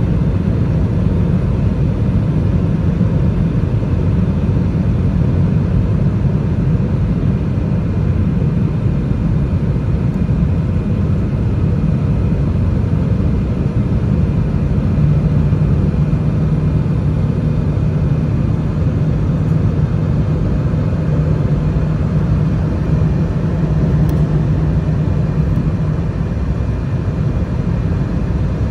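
Airliner's jet engines running steadily, a deep even rumble, with a low steady hum joining about halfway through and fading near the end.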